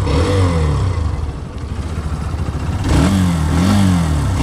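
Hero Xtreme 125R's single-cylinder engine running in neutral, freshly started. It drops back toward idle, then from about three seconds in it is revved in quick blips, the pitch rising and falling twice.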